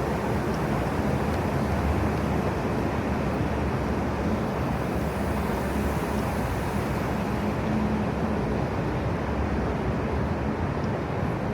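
Steady city street ambience: a continuous rumble of road traffic with a faint steady hum, and a soft hiss for a couple of seconds about five seconds in.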